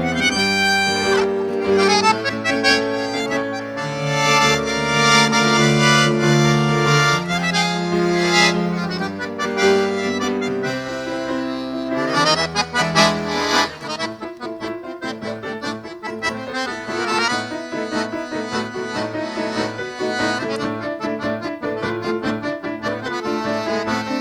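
Instrumental tango music played on an electronic keyboard, with sustained chords and melody; the low bass notes drop out a little past halfway.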